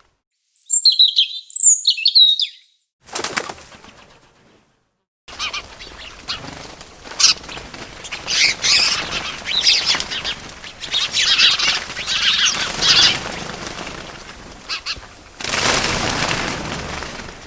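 A few high bird chirps, then birds' wings flapping and fluttering, with busy chirping mixed in, for most of the rest.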